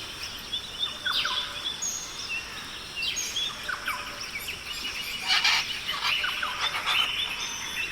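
Birds calling: many short chirps and whistled sweeps overlapping, with one harsher, noisier call about five seconds in.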